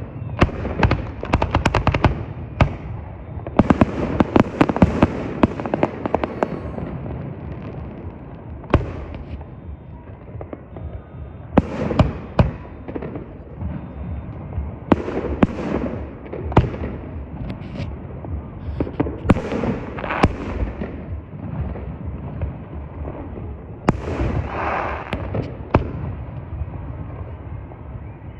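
Fireworks going off in rapid volleys: clusters of sharp bangs and crackling that come and go in waves every few seconds.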